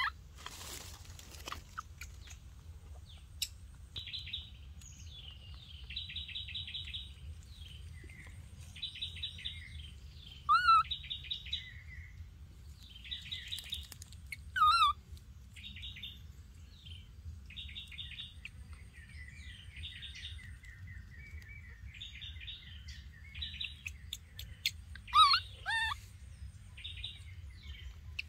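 Forest birds chirping in short, repeated rattling phrases, with a few louder, short, wavering calls breaking in now and then over a steady low rumble.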